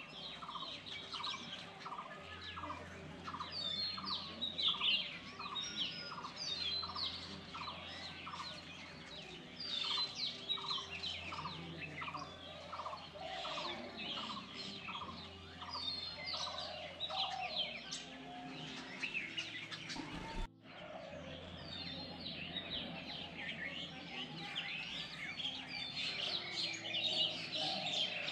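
Many small birds chirping and twittering in a dense chorus of short high calls, with one call repeated about twice a second through the first ten seconds. The sound breaks off briefly about twenty seconds in.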